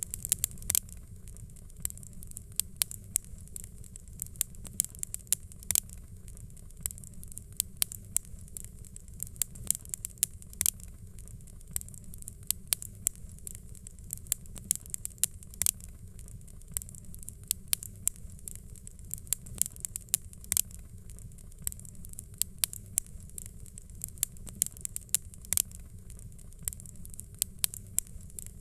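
Wood fire crackling: sharp, irregular pops and snaps several times a second over a steady low rumble and a soft hiss.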